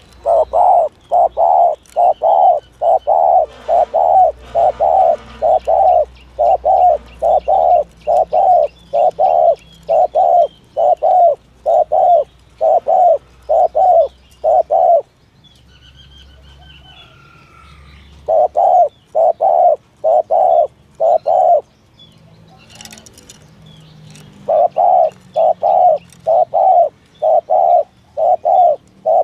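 Spotted dove giving its rapid 'thúc gù' coo: short, low notes repeated about twice a second in long runs, breaking off twice before starting again. Faint chirps of smaller birds sit underneath.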